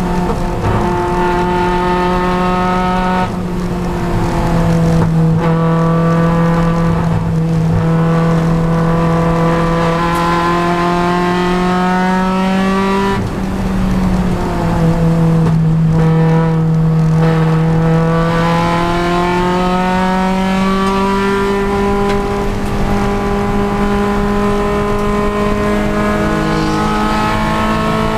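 Honda Civic Si race car's four-cylinder engine under racing load: a steady engine note that climbs slowly in pitch, drops sharply with a gearshift about three seconds in and again about halfway, sags for a moment as the throttle comes off, then climbs again and holds.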